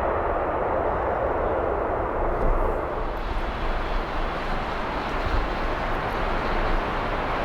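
Jet airliner engines heard from the ground as a steady rushing noise with a deep rumble beneath, easing a little after about two and a half seconds.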